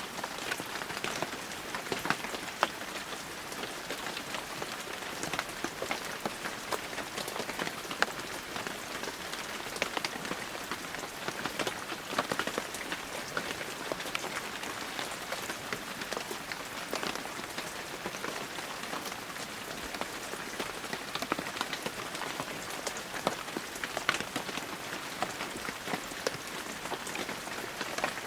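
Heavy rain falling steadily: a dense hiss with many sharp, close drop impacts ticking out of it.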